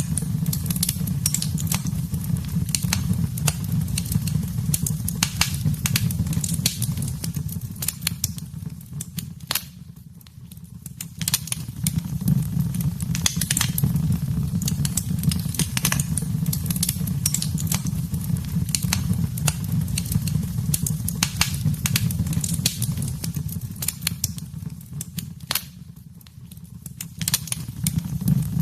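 Wood fire crackling in a fireplace: frequent sharp pops and snaps over a steady low rumble of the flames. The sound dips quieter briefly twice, about ten seconds in and again near the end.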